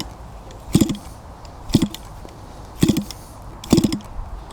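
Small petrol model-aircraft engine being cranked over to start: short bursts of turning over about once a second, five times, without catching.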